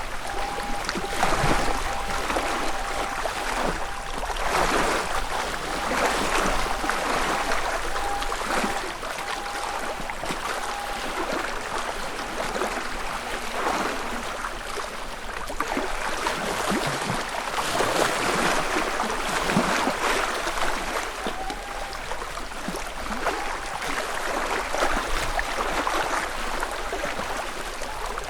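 Small lake waves lapping on the shore of a calm lake, each ripple washing in and easing off every couple of seconds.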